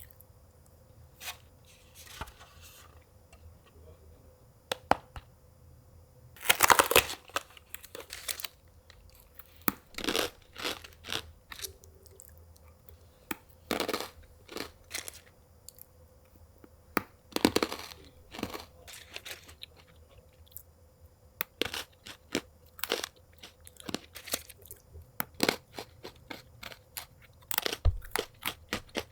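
Someone eating crunchy food close to the microphone: irregular crunching and chewing, with a few louder bites scattered through.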